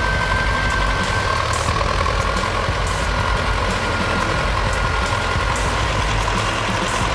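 A heavy truck's engine running steadily, with a constant high whine over the low rumble.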